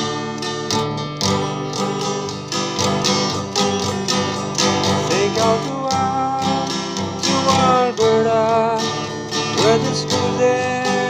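Strummed acoustic guitar playing a country-style instrumental introduction, with a few melody notes that slide in pitch.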